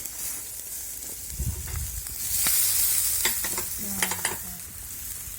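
Chicken shashlik on metal skewers sizzling over charcoal as the skewers are turned. The hiss swells about two seconds in, and several sharp clicks come in the second half.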